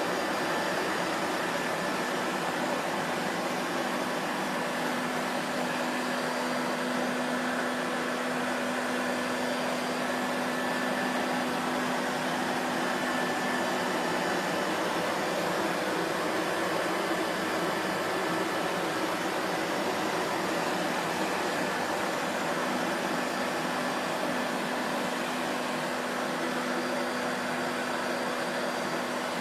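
Vacuum cleaner motor running steadily, a continuous whooshing drone with a faint low hum underneath.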